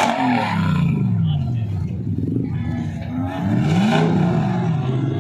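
A car engine revving: its pitch falls away over the first second or so, then climbs again in a fresh rev about three and a half seconds in.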